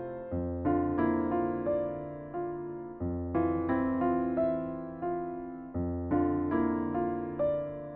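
Background music: a slow, gentle piece on electric piano, chords and single notes struck and left to ring and fade.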